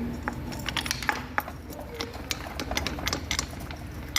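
Irregular metallic clinks and taps of hand tools and parts being handled while a Bajaj Pulsar AS 150 engine is taken apart, several sharp clicks a second over a low steady hum.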